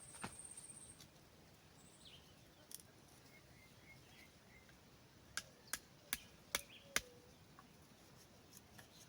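Blade chopping at a small wooden stick: a sharp knock near the start and another a few seconds later, then five quick knocks in a row about two thirds of the way through.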